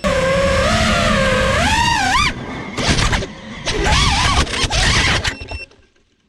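FPV quadcopter motors and propellers whining, the pitch wobbling up and down with the throttle over a rushing noise. After a couple of seconds the sound breaks into uneven surges, and it dies away near the end.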